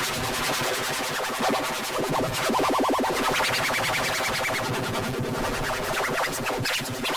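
Cacophony of many overlaid, pitch-shifted and distorted copies of a cartoon soundtrack, forming a dense buzzing wall that sounds like harsh electronic music, with a fast stuttering pulse running through it.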